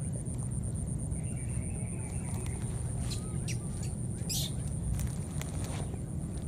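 A few short, sharp bird chirps about halfway through, over a steady low rumble and a high, even pulsing tone.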